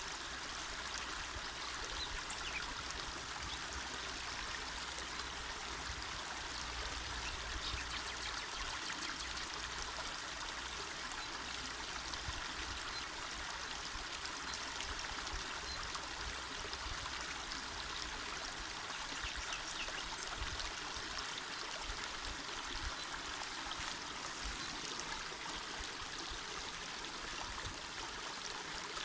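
Small mountain river flowing over stones, a steady rush with a lively trickle and splash in it.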